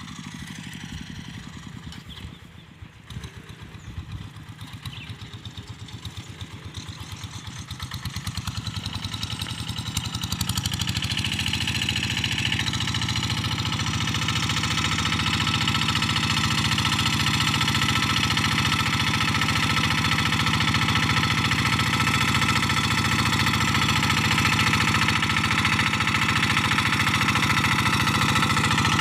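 Quick G1000 Boxer hand tractor's single-cylinder Kubota diesel engine running while ploughing. It starts quieter, with a few knocks in the first seconds, then rises over several seconds about ten seconds in and runs steady and louder to the end.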